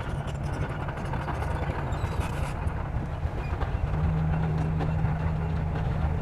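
Bulldozer's diesel engine running steadily under load, its low drone growing stronger about four seconds in.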